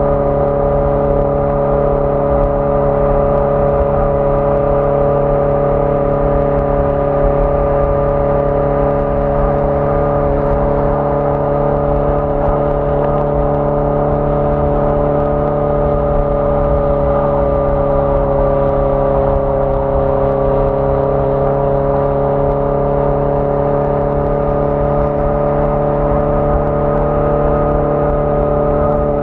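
1981 Yamaha XJ650 Maxim's air-cooled inline-four engine running at a steady cruise under way, its pitch easing down a little past the middle and picking up again near the end.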